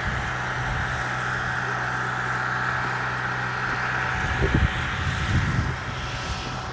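A vehicle's engine running with a steady hum; about four seconds in the hum drops away and irregular low rumbling takes over.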